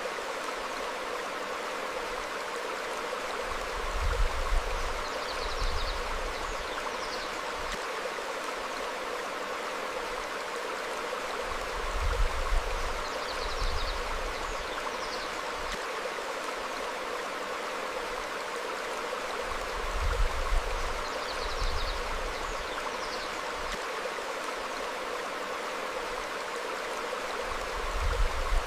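A stream flowing steadily over rocks, with faint bird chirps now and then. A brief low rumble swells about every eight seconds.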